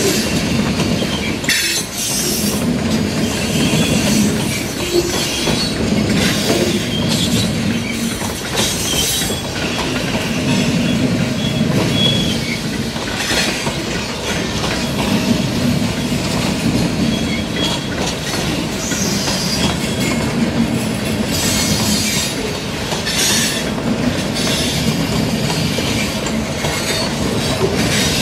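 Freight train's boxcars and lumber flatcars rolling steadily past, their steel wheels clattering on the rails, with brief high-pitched wheel squeals now and then.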